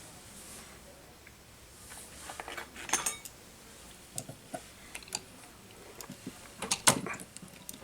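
Hand tools and small parts being handled and set down on a workbench: a cluster of clicks and clinks about three seconds in, scattered single taps, and a louder clatter near the end.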